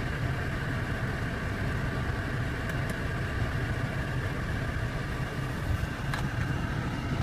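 BMW 535i's turbocharged 3.0-litre inline-six idling steadily, heard from inside the cabin as a low, even rumble. A few faint clicks come about a third of the way in and again near the end.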